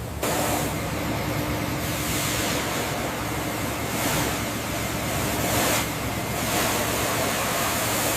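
Steady rushing noise over a low steady hum, starting just after the beginning and cutting off abruptly at the end.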